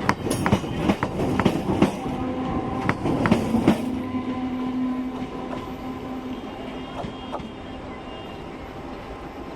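Old Indian Railways MEMU electric train pulling away. Its wheels click over rail joints for the first few seconds, then a steady hum, typical of its nose-suspended traction motors, fades as the train moves off.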